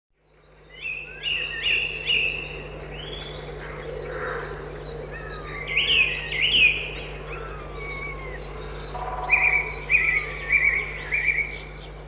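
Birdsong from several birds, with repeated chirps and short whistled phrases coming in clusters over a steady low hum, starting about a second in.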